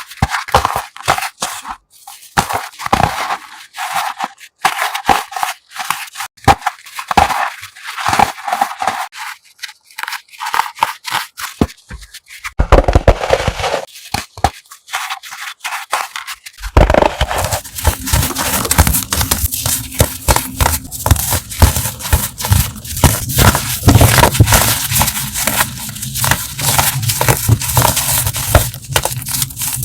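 Crunchy gym chalk blocks being crushed: a fast run of sharp crunches and crackles. About halfway through the crunching becomes continuous and fuller, with more low end.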